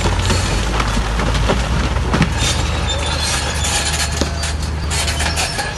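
Diesel engine of heavy earthmoving equipment running steadily, under a dense clatter of metallic clanks and clinking stones that is busiest in the second half.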